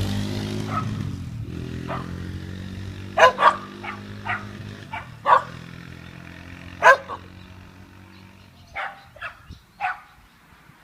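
A dog barking repeatedly in short, sharp barks over the steady running of a Kawasaki 250cc dirt bike engine, which fades and cuts out about eight and a half seconds in.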